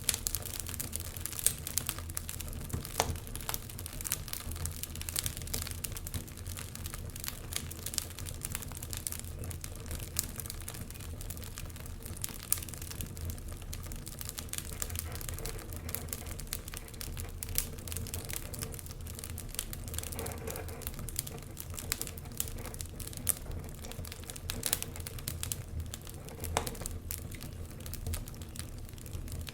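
Wood fire burning in a fireplace: logs crackling and popping in quick irregular clicks over a low steady rumble of the flames.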